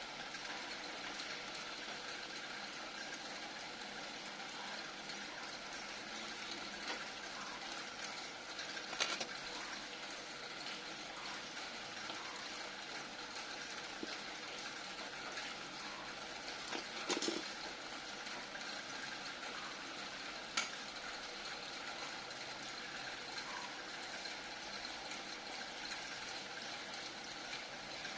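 Steady background hiss with three brief small clicks, about nine, seventeen and twenty seconds in, from small parts being handled during a vape pod coil rebuild.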